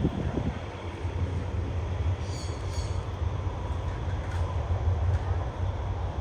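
Train rolling through the station with a steady low rumble, and a brief high squeal from the wheels about two seconds in.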